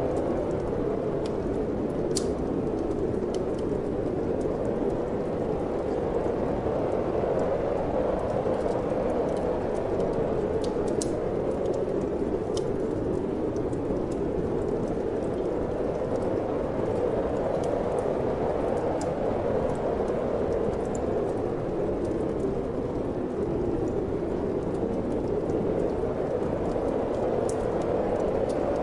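Steady wind blowing with a wood fire crackling in a fireplace: a few sharp pops and ticks scattered through the even rush.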